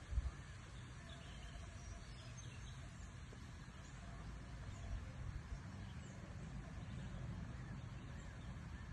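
Faint outdoor background noise: a steady low rumble, with a few soft knocks in the first half second and scattered faint, short high chirps.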